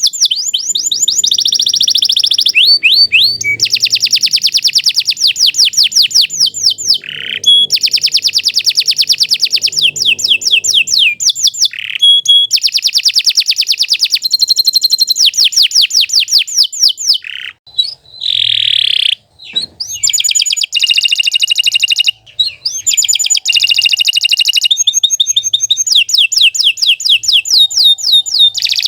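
Domestic canary singing a long, nearly unbroken song made of phrases of fast, high-pitched repeated notes and trills, each phrase a second or two long, with one brief dip about two-thirds of the way through.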